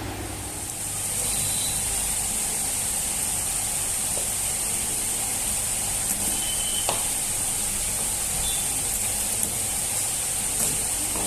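Steady high-pitched hiss that starts about a second in, with a few light clicks and knocks over it.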